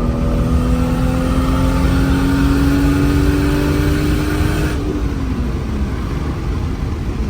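Toyota JZ-series straight-six engine pulling under acceleration, its pitch rising slowly for about five seconds, then easing off as the throttle is lifted and the revs fall.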